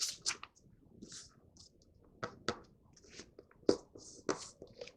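A sheet of printer paper being folded and creased by hand: scattered rustles and crisp crackles, the sharpest a little past halfway through.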